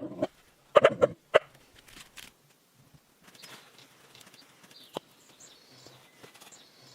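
Three or four loud, sharp knocks in the first second and a half, then a single click about five seconds in, over faint high bird chirps.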